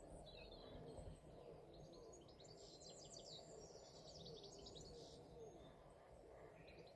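Faint birdsong: songbirds giving quick runs of high chirps, clearest in the middle, over a quiet outdoor background.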